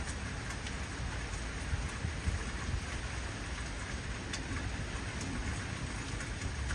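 Heavy rain falling steadily: a dense, even hiss with single drops ticking sharply here and there, over a low, uneven rumble.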